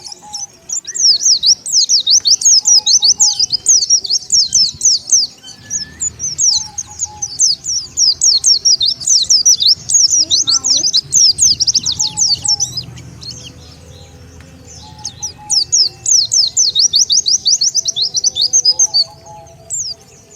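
White-eye (pleci) song used as a bird lure: rapid, high twittering in long unbroken runs. The twittering thins out for a couple of seconds past the middle, then resumes.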